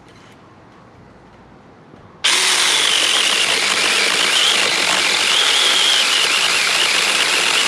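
Saker 4-inch battery-powered mini chainsaw switched on about two seconds in and running loud and steady, its high electric whine wavering slightly as it cuts into a hawthorn limb.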